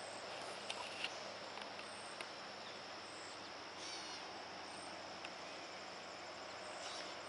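Faint, steady outdoor insect chorus: a continuous high trill with short, higher chirps repeating through it, and a few faint clicks.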